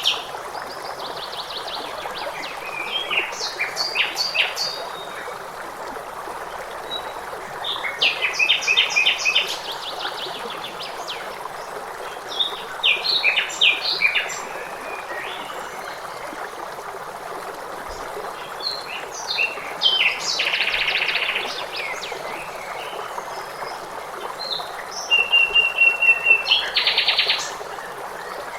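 Songbirds singing in short phrases every few seconds, several made of fast runs of repeated notes, over a steady rush of flowing water.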